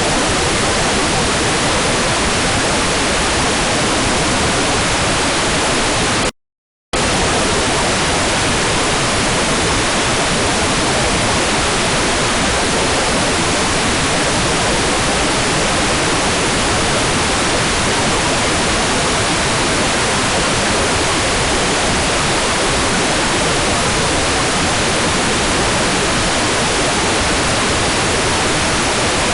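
Hair dryer blowing steadily, a constant even rushing noise used as white noise for baby sleep. It cuts out completely for about half a second some six seconds in, then resumes unchanged.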